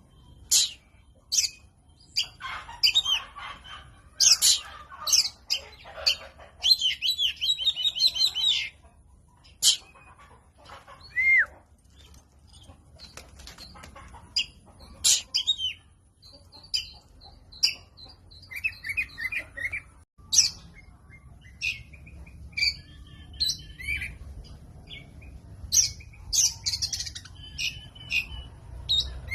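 Oriental magpie-robin (kacer) singing in irregular bursts of short sharp whistles, chirps and quick warbling trills, with short pauses between phrases.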